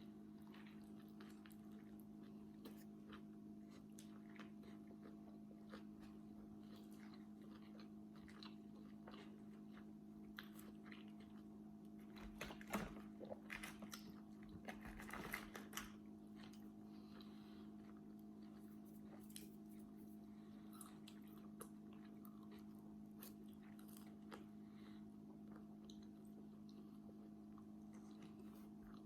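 A person quietly chewing and eating a burger and fries, with faint scattered mouth clicks and a louder spell of chewing about halfway through, over a steady low hum.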